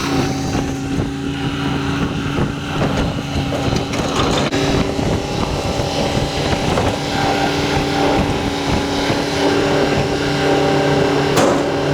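A vehicle engine running steadily, with wind on the microphone and one short sharp knock near the end.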